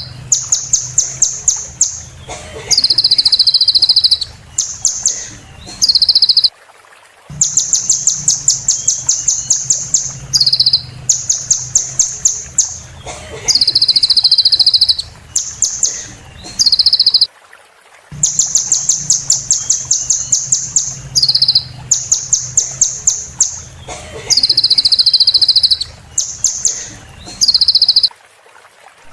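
Sunbird song: rapid, high trills of quick repeated notes alternating with buzzy held notes, broken by a short silence about every eleven seconds, as in a looped song recording.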